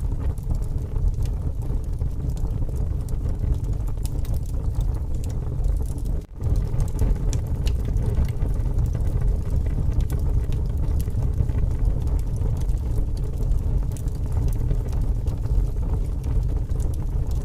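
Wood fire burning with scattered crackles and pops over a steady low rush of strong wind. The sound briefly drops out about six seconds in.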